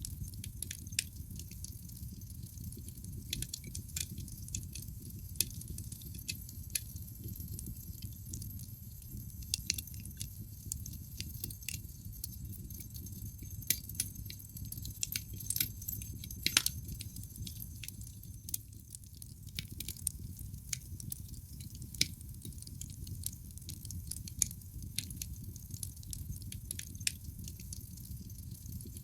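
Wood fire crackling in a fireplace: irregular sharp crackles over the low steady rumble of the burning logs, with one louder snap a little past the middle.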